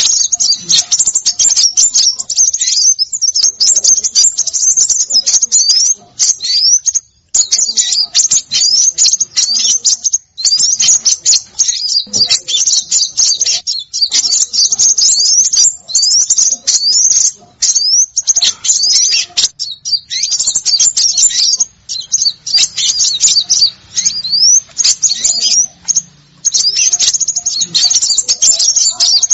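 Dense, high-pitched chattering of small birds: a rapid, near-continuous stream of short chirps and quick rising notes with brief pauses, played as a bird-luring call.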